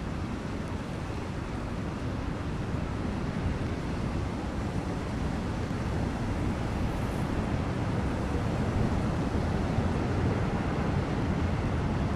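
Steady rushing of wind buffeting the microphone during a bicycle ride in the rain, heaviest in the low end and growing slightly louder over the stretch.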